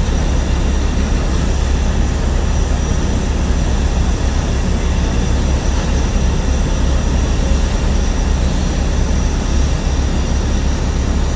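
Aircraft engines giving a loud, steady rumbling noise that holds at the same level throughout, with no rise or fall in pitch.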